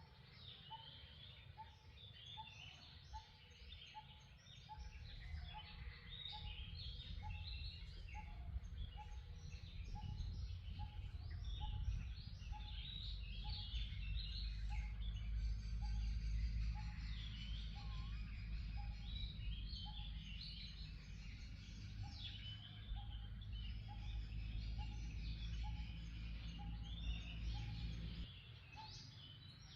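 Many wild birds chirping and calling over each other, with one short note repeated about twice a second underneath. A low hum runs along with them and stops suddenly near the end.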